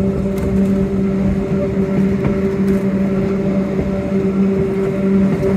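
Yellow Train electric narrow-gauge railcar running along the track. A steady, even-pitched motor hum sits over a low rumble.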